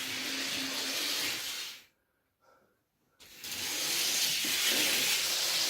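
Model train running around Tri-ang track: a steady rushing whirr of motor and wheels on the rails, which drops out completely for about a second and a half partway through and then comes back.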